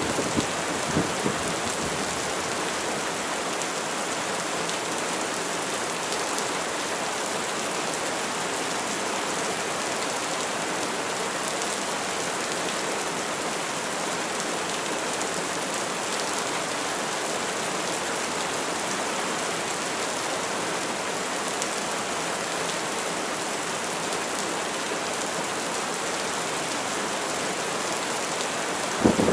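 Steady rain falling on a surface, an even hiss, with a few brief louder hits near the start and again near the end.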